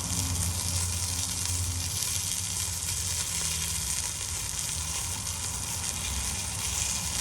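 Breaded chicken thighs shallow frying in canola oil on a hot flat-top griddle, a steady sizzle, with a low hum underneath.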